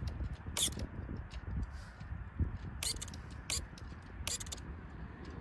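Mountain bike moving over rough ground: a steady low tyre rumble with several sharp, irregular clicks and rattles.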